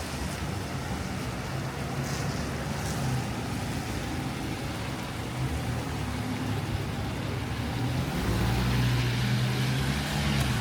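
City street traffic on wet roads: a steady hiss with the low hum of vehicle engines, one engine growing louder about eight seconds in.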